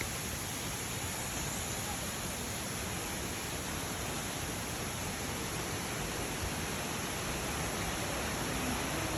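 Steady rushing of a waterfall, an even roar of falling water that holds constant.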